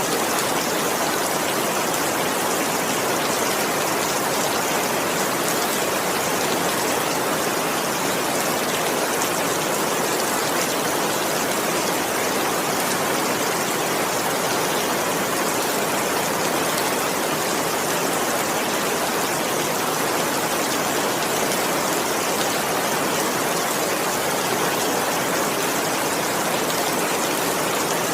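Steady rain falling, an even, unbroken hiss of heavy rainfall with no distinct drops standing out.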